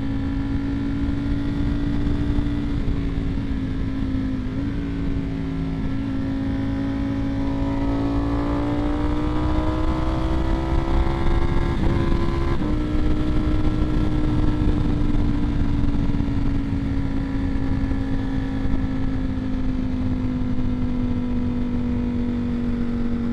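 Ducati Streetfighter V4S's 1103 cc V4 engine, fitted with a Vandemon aftermarket exhaust, running steadily under way at moderate revs. The note climbs gently, then steps down at a gear change about halfway through and slowly falls off. Wind rumble sits underneath.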